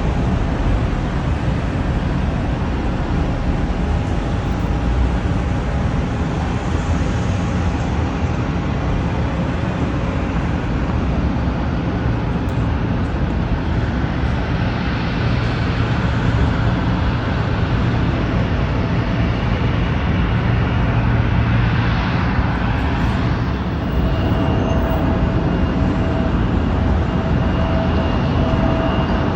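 Jet airliner engines running, a loud steady rumble. A thin steady whine comes in about four-fifths of the way through.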